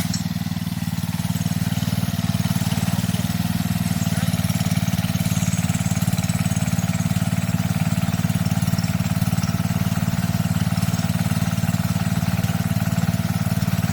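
Garden tractor engine running steadily at a constant speed, a little louder after about two seconds.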